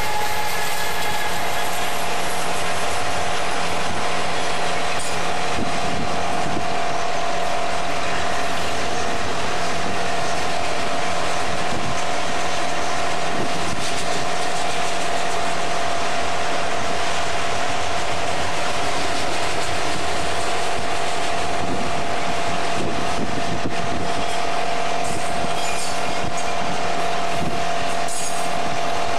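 Union Pacific freight train rolling past close by: the trailing locomotives, then a long string of autorack cars, with a steady rumble and clatter of wheels on the rails and a steady high tone throughout.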